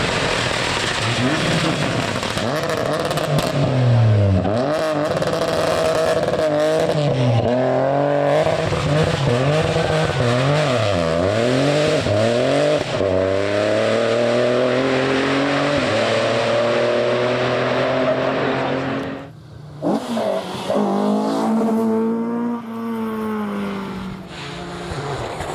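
Rally car engine running hard, its pitch dropping sharply and climbing again several times as it revs through the stage. About 19 seconds in the sound drops away suddenly, then an engine climbs in pitch again.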